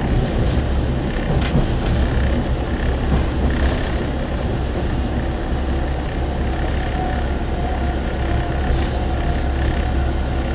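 Steady low drone of a single-car diesel railcar running along the line, its engine and wheels on the rails heard from inside the passenger cabin, with a few faint clicks.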